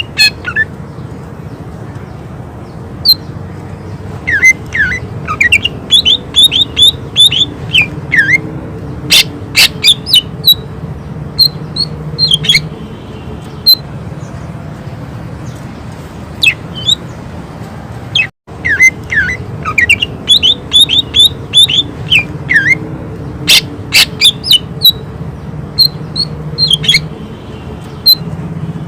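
Cucak ijo (green leafbird) singing in rapid bursts of sharp chirps and quick falling whistles, with short pauses between the bursts, over a steady low hum. The audio drops out for a moment about halfway through and the same run of song starts over.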